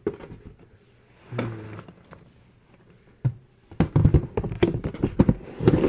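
Plastic fidget toys being handled and rummaged through in a storage drawer: a few scattered taps, then a dense run of clattering knocks and thunks in the second half.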